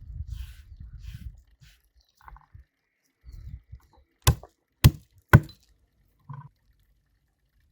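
Kitchen food-preparation sounds: low rough handling noise at first, then three sharp knocks about half a second apart, like utensils striking a board or bowl.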